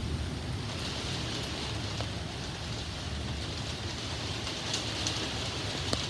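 Steady heavy rain falling and pattering on surfaces, with a low, continuous rumble underneath and a few sharp drop ticks.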